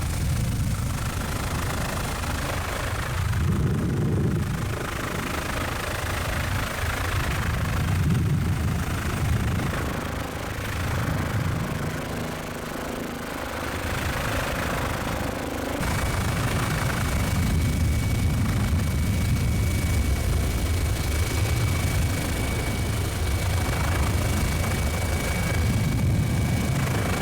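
Helicopter heard from on board: a steady drone of engine and rotor that swells and eases in level, with a faint high whine joining about halfway through.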